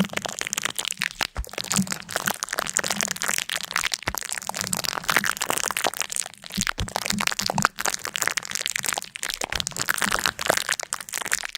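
Dense, continuous crackling and crunching: many small sharp cracks packed close together.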